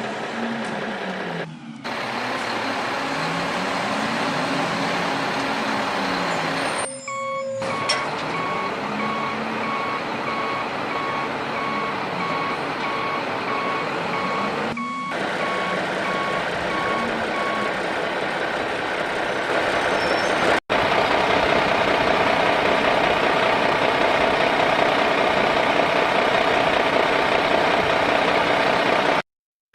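Radio-controlled toy dump truck running, its motor whirring with a pitch that repeatedly rises and falls as it speeds up and slows. From about 8 s a reversing beeper sounds in a steady beep-beep for about ten seconds. After a sudden cut about 21 s in, a louder steady engine-like rumble takes over.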